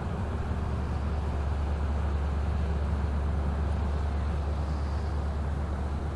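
Diesel engine of a passing Rhine inland ship giving a steady low drone, swelling slightly and then easing off again.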